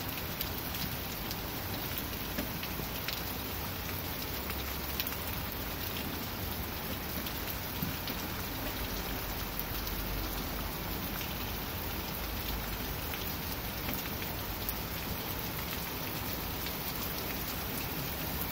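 Heavy rain pouring steadily in a thunderstorm, an even hiss with scattered sharper drop impacts.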